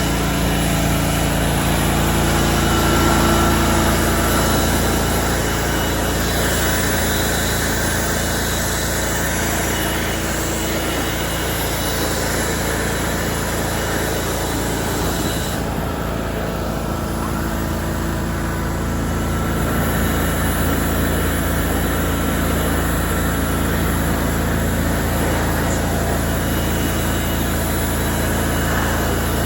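Lawn mower's petrol engine running steadily under mowing load, its high hiss dropping away briefly past the middle.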